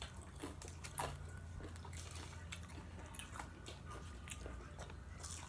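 Faint chewing of fast food: scattered small mouth clicks and soft crunches, over a low steady hum.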